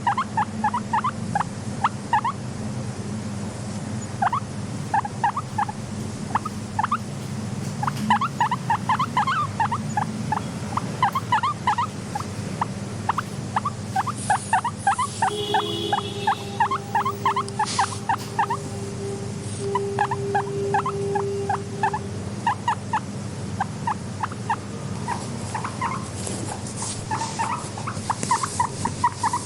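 Guinea pigs squeaking in quick runs of short, rising squeaks, over a steady low hum. About halfway, a held tone runs for several seconds.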